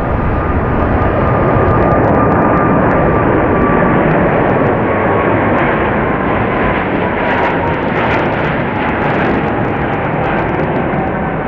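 Jet airliner's engines running close by, a loud roar with a whine that slowly falls in pitch as the aircraft passes.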